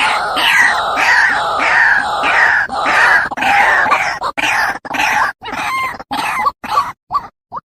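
White-breasted waterhen (ruak-ruak) calling: a fast run of repeated harsh croaking notes, about two a second, that grow shorter and sparser and die away near the end.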